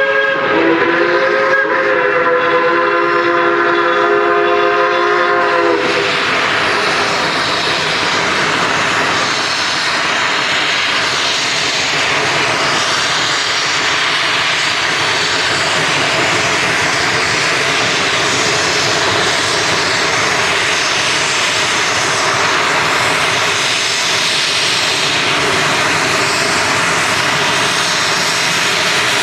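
Steam locomotive whistle blowing a long blast of several tones at once, dipping in pitch soon after it starts and cutting off about six seconds in. A steady loud rushing noise follows.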